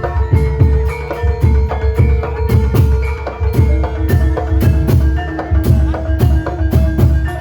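Javanese gamelan accompaniment for an ebeg dance, played without singing: struck metallophones ring out a melody of overlapping notes over steady low drum strokes.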